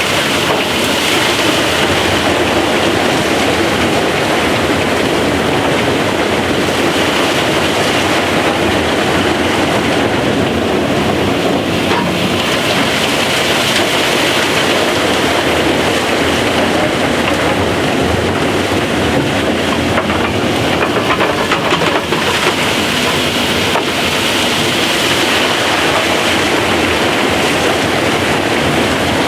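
Opal-mining machinery underground, the digging machine and blower, running loud and steady without a break.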